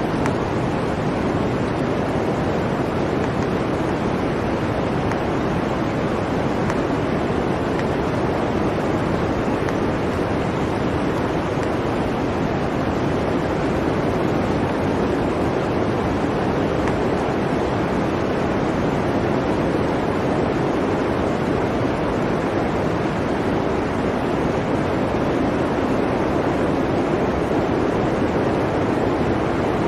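Steady blizzard wind, a continuous rushing noise with no distinct events.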